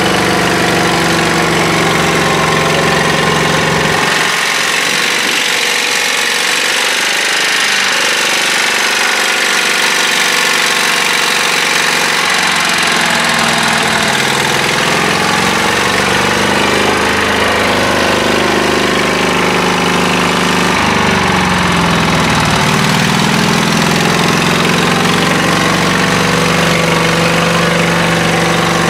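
Tractor engine running loud, its pitch rising and falling as it is revved up and down.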